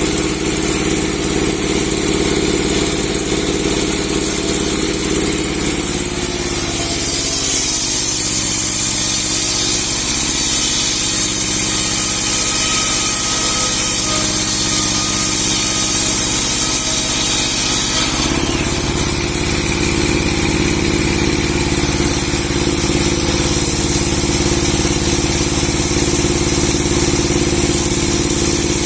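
A large 30 hp log-sawing machine with a 60 cm steel blade running steadily. From about seven seconds to about eighteen seconds its note changes and a high hiss rises as the blade cuts through a big log, then it settles back to its free-running sound.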